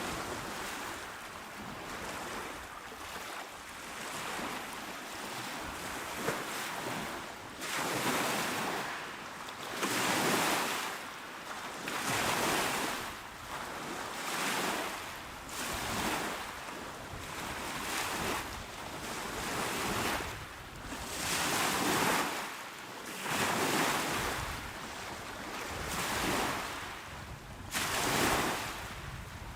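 Small, calm sea waves washing onto a shore, the surf swelling and easing back every two seconds or so.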